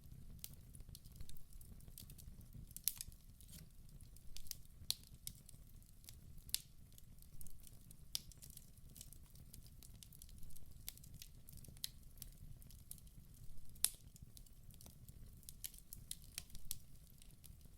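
Wood fire burning in a fireplace: a low steady rumble of flame with frequent sharp crackles and pops at irregular intervals, a few louder snaps among them.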